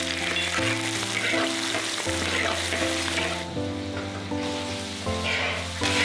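Hot oil sizzling in a wok as garlic, ginger, scallion and chili paste fry and a metal ladle stirs. Near the end the sizzle flares up again as chopped pickled greens are tipped into the wok. Soft background music plays under it.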